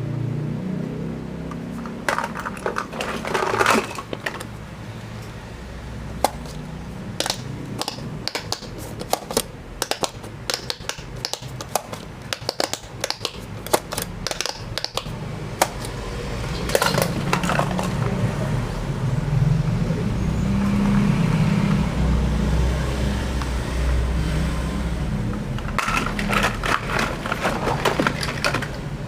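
Plastic toy vehicles clattering and knocking together as they are handled and unpacked: many sharp clicks and taps, with a low rumble that grows in the second half.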